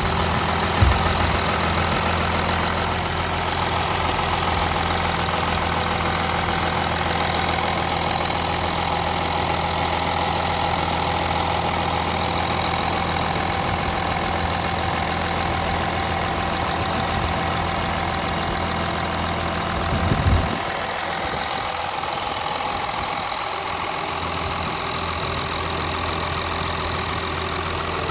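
An engine idling steadily, with a brief thump about twenty seconds in, after which its low hum is a little weaker.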